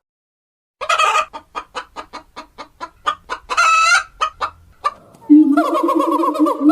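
Animal calls: a rapid series of short pitched calls, about four a second, with two longer cries among them. About five seconds in they give way to a different, steadier call that pulses.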